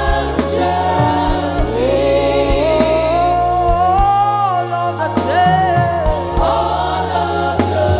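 Live gospel worship music: sung voices holding and gliding through long notes over a steady bass line and drum hits.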